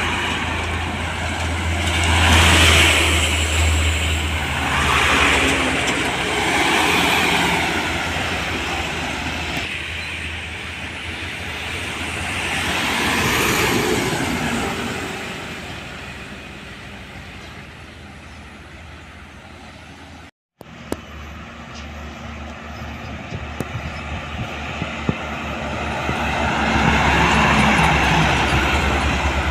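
Road traffic with trucks among it: several vehicles pass one after another, each swelling and fading with engine rumble and tyre noise. The sound cuts out for a moment about two-thirds of the way through.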